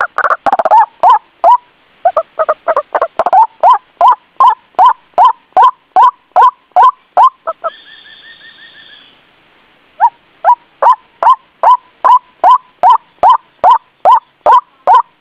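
White-breasted waterhen calling its repeated 'ruak' note, loud and even, about three calls a second. The calls break off about halfway through, while a fainter, higher drawn-out note sounds, and then start again.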